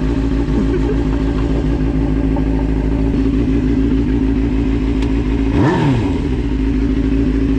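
Suzuki GSX-R600 inline-four sport bike engine idling steadily, with one quick rev blip a little past halfway that rises and falls back within about half a second.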